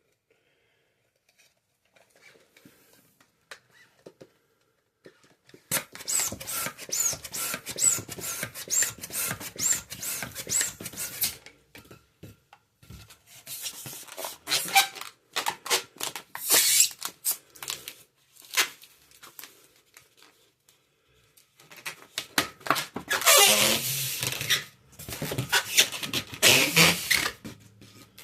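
Long latex modelling balloons being inflated and twisted: rubber squeaking and rubbing in bursts, with a run of quick repeated squeaks about six seconds in and the loudest squeaking near the end.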